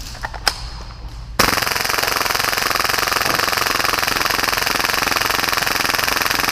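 Full-auto Tokyo Marui Hi-Capa airsoft pistol, running on 120 PSI air, firing one long continuous burst of about 30 rounds a second, a rapid rattling stream that starts about a second and a half in. A single click comes just before.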